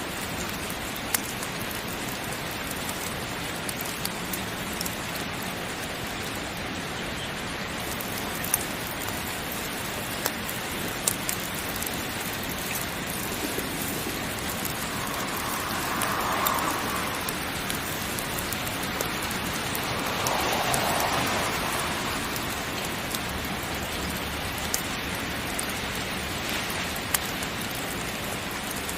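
Heavy, steady rain with occasional sharp crackles from a wood fire. The rain swells twice, about halfway through and again a few seconds later.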